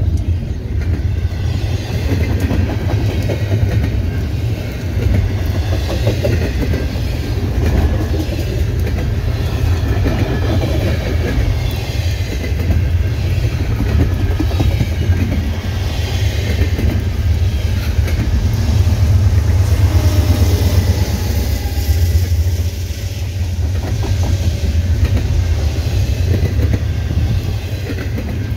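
Freight cars of a CN intermodal train rolling past in a steady low rumble, their wheels clacking over rail joints. Faint high wheel squeals rise and fall through it.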